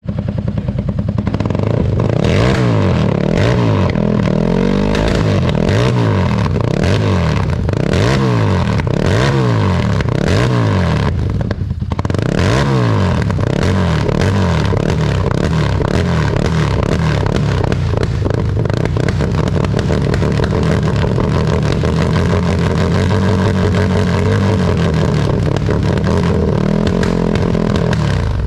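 Harley-Davidson Street 750's V-twin through a Vance & Hines exhaust, revved in quick repeated blips about once a second, with popping and crackling on the off-throttle as unburnt fuel ignites and shoots flames from the pipes. In the second half the engine holds a steadier, fast idle that still crackles.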